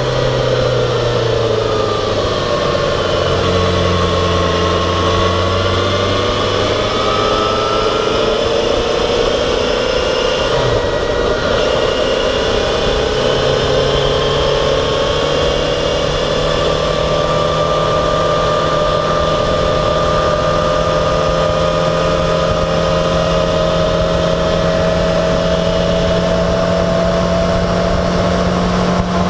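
Yamaha XJ6 Diversion F's 600cc inline-four engine running at road speed, with wind noise. Its pitch dips over the first few seconds and then climbs slowly and steadily for the rest, as the bike eases off and then gradually accelerates.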